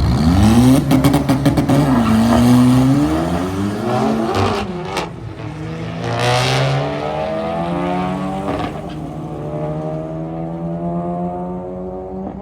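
Drag-race cars launching and accelerating hard down the strip: the engine note climbs, drops at an upshift about two seconds in and again near five seconds, then climbs steadily and fades as the cars pull away.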